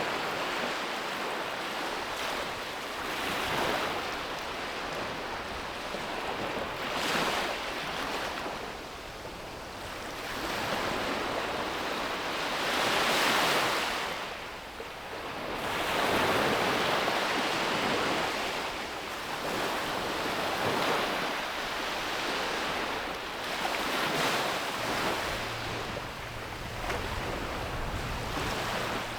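Ocean waves breaking on a beach, the surf swelling and receding in surges every few seconds, with a light rush of wind.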